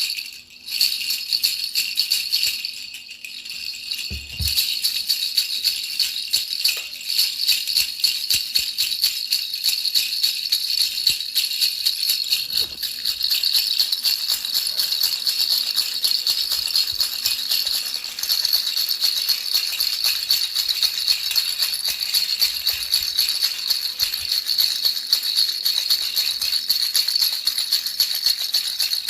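Baby rattle shaken continuously: a dense, high-pitched rattling of small beads, dipping briefly twice in the first few seconds, played as soothing noise for a baby to sleep.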